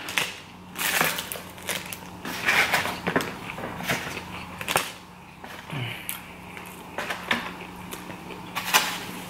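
Close-up eating sounds: chewing and crunching of takeout food, with irregular clicks and rustles from fingers picking food out of a styrofoam container. A steady low hum runs underneath.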